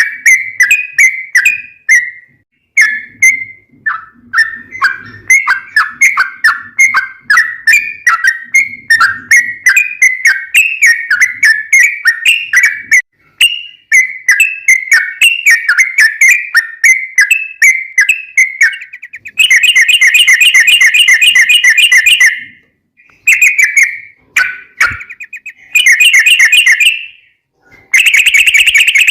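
Yellow-vented bulbul (trucukan) singing: a fast run of short, chirping whistled notes. About two-thirds of the way in, the song breaks into rapid rolling trills, the "ropel", in three short bursts with brief pauses between them.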